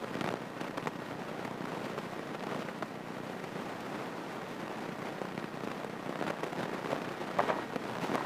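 Steady hiss from the cockpit intercom of a light airplane idling on the ground, broken by irregular small crackles.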